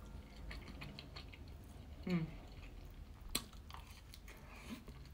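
Close-miked eating: soft chewing and mouth noises of a mouthful of egg and rice. A short falling hum comes about two seconds in, and a single sharp click a little over three seconds in.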